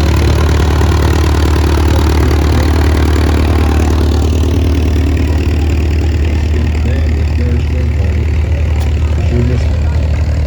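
Vintage farm tractor engine running steadily close by as it drives past, its higher sound dropping away about four seconds in.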